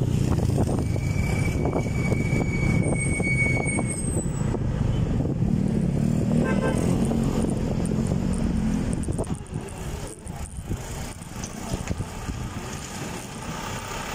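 Engine of a motor vehicle running, heard with rushing noise; it falls away about nine seconds in.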